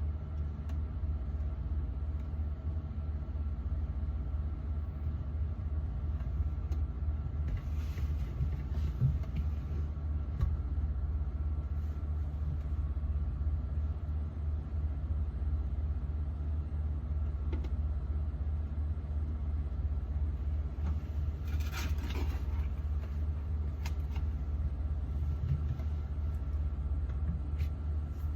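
Refrigerator running with a steady low hum and a faint steady higher tone. A few brief rustles come about 8 and 22 seconds in.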